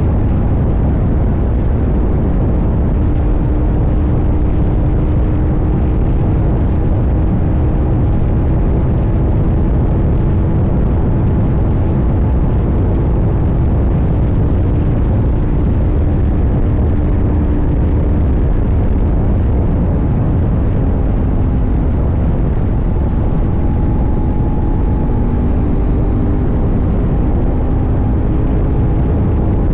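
CFMoto 800NK parallel-twin motorcycle engine running at a steady cruise, its pitch drifting gently up and down, under heavy wind and road rumble.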